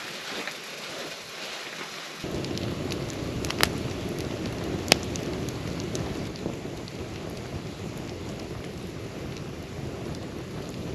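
Campfire burning with a steady crackle and two sharp pops, one about three and a half seconds in and one about five seconds in. A deeper rumbling joins about two seconds in.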